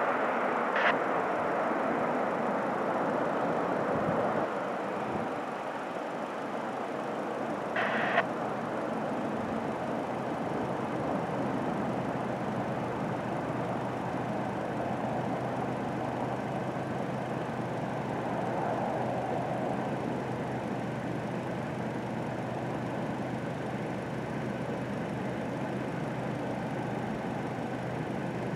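Jet noise of a departing Airbus A330-300 climbing away: a broad, even rush that fades over the first several seconds and then lingers as a faint distant rumble. Two short clicks stand out, about one second and eight seconds in.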